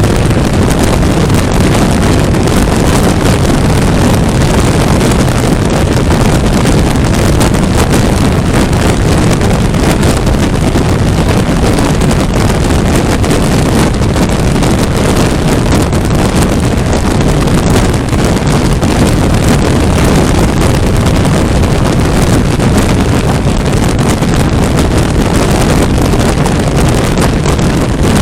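Wind rushing hard over the microphone on a 400cc motorcycle at highway speed, loud and steady, with the bike's engine and road noise running underneath.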